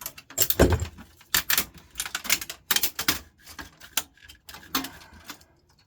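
Hard plastic parts of a laser printer clicking and knocking as they are pulled off and handled, in irregular clatters, with a heavier knock and thud about half a second in.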